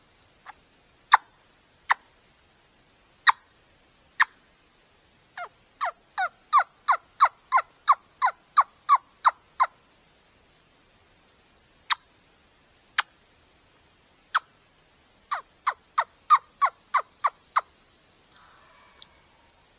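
Turkey clucks and yelps. First come scattered single sharp notes, then a long run of about a dozen yelps at roughly three a second. After a pause with two more clucks comes a second, shorter run of yelps. A faint rustle follows near the end.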